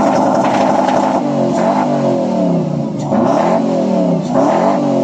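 Car engine being revved hard several times in a row, the pitch climbing with each rev and falling back between them.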